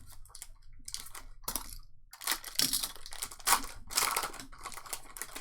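Trading card pack wrapper crinkling and tearing as a pack of 2021 Panini Donruss Baseball cards is opened and the cards are handled, in a run of irregular rustles and scrapes.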